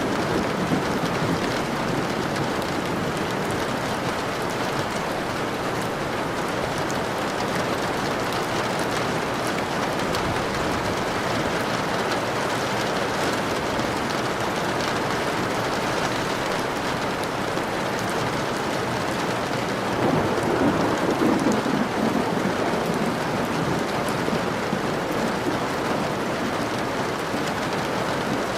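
Steady rain falling, with a low roll of thunder swelling about two-thirds of the way through.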